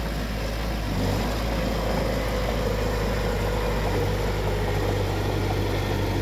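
Heavy earth-moving machinery's diesel engine running steadily, with a higher whine above the low drone that drifts slightly lower in pitch.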